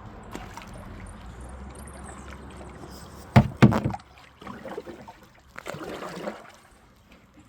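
Water trickling and splashing around a kayak on a river, with two loud, sharp knocks about three and a half seconds in, followed by quieter splashing.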